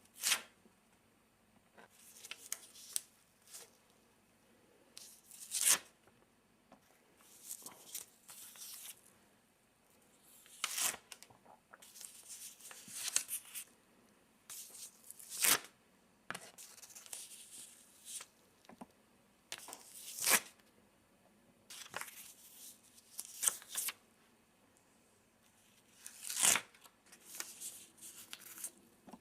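Sticky post-it notes being peeled off a pad, one sharp papery rip after another at uneven intervals of about one to three seconds, some rips brief and some drawn out, over a faint low hum.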